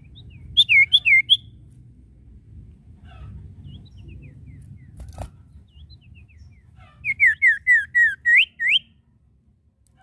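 Sirtu songbird singing loud whistled notes. There is a quick burst of four notes about half a second in, soft chirps in between, and near the end a run of about six down-slurred whistles closing with two rising ones. A low steady hum sits underneath.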